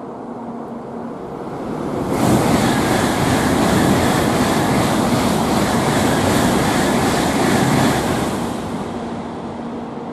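Tokaido Shinkansen train passing through the station at high speed without stopping: a loud rush of air and rail noise that rises, cuts in sharply about two seconds in, holds for about six seconds, then dies away.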